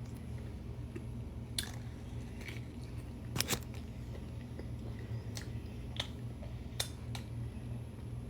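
Close-up eating of barbecue: chewing with scattered sharp clicks and mouth smacks, the loudest a pair about three and a half seconds in, over a steady low hum.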